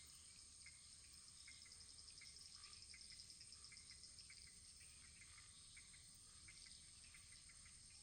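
Wood fire crackling faintly: small, irregular crackles, several a second, over a low, steady rumble of the flames.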